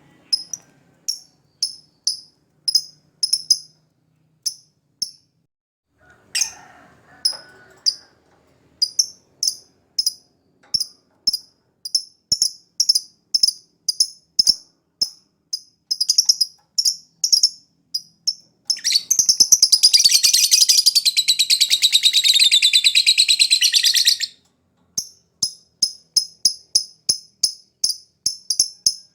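Lovebird calling with short, sharp, high chirps, about two to three a second. Past the middle the chirps break into a long, rapid trilling song of about five seconds, then resume.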